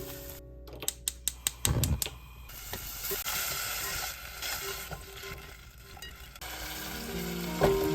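Food sizzling and frying in a pan while being stirred, with a quick run of sharp taps of a utensil about a second in.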